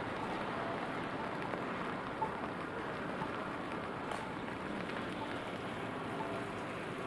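Steady rain falling on city pavement, an even hiss, with a faint short tone repeating about once a second.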